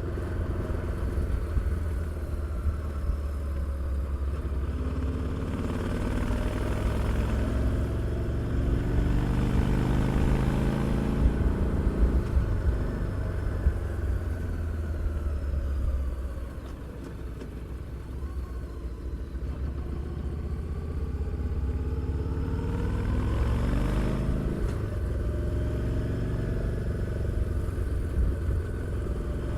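Harley-Davidson Street 750's liquid-cooled V-twin running on the move under A2-restricted tune, the exhaust note rising and falling as the rider accelerates and shifts. It eases off about halfway through, then pulls up through the revs again.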